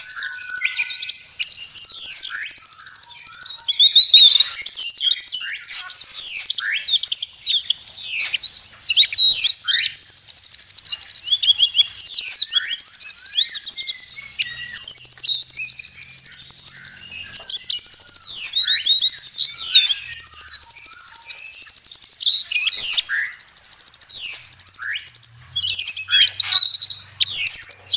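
Bird-lure recording for migratory birds: high-pitched songbird calls, with rapid buzzy trills a couple of seconds long repeated after short breaks, over a jumble of short chirps and whistles.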